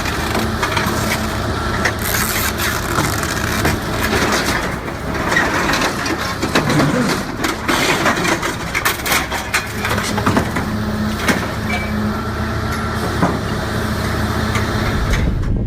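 Heavy diesel machinery running steadily under repeated clanks and crunching of metal.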